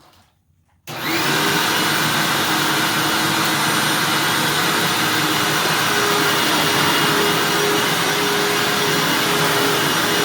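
Blue Hoover WindTunnel self-propelled upright vacuum, fitted with new belts, switched on about a second in: the motor starts suddenly and then runs steadily and loudly, with a steady hum running through the rushing air.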